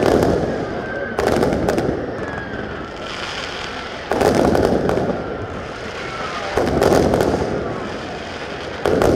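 Aerial fireworks bursting overhead: four sudden booms about two and a half seconds apart, the first a quick double, each with a crackling tail that fades before the next.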